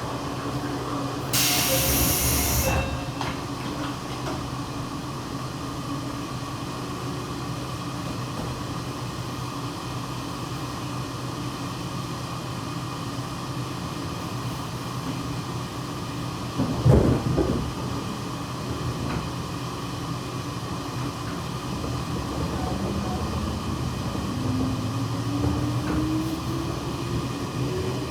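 Cabin sound of a JR 117 series electric train: a steady running hum and rumble. About a second and a half in there is a short burst of air hiss, and a single knock comes a little past halfway. Near the end a whine climbs steadily in pitch as the train picks up speed.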